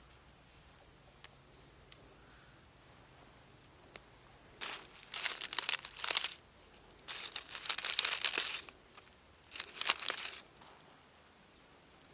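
Crinkling, rustling handling noise in three bursts, the first about four and a half seconds in, the second around eight seconds, the last and shortest near ten seconds.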